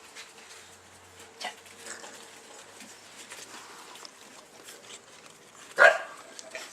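Sleeping bull-breed puppy snoring softly, with one louder snore near the end.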